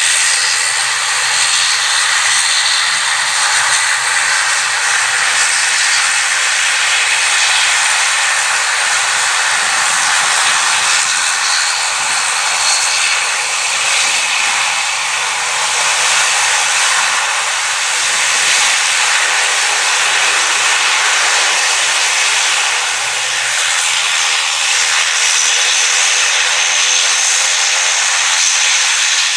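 Jet airliner engines running close by: a loud, steady rush, with a faint high whine rising near the end.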